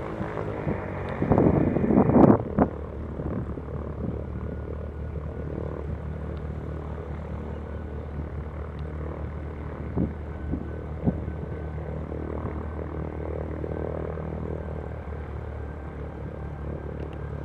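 Aircraft engines running with a steady low hum, with a brief louder rush about a second in.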